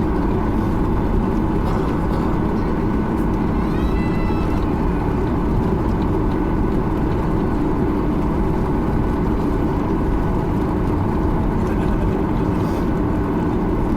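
Cabin noise of a Boeing 737-800 on the ground, its CFM56 engines running at idle: a steady low rumble and hum heard from inside the cabin.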